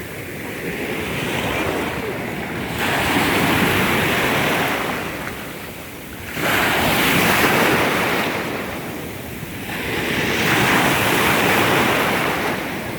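Storm waves breaking on a pebble beach: three big surges, the first two crashing in suddenly and the last swelling up more slowly, each washing back between them. Wind buffets the microphone throughout.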